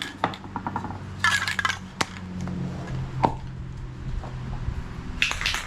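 Aerosol spray paint can being shaken, its mixing ball clinking sharply inside, with short hisses of spray about a second in and again near the end, over a steady low hum.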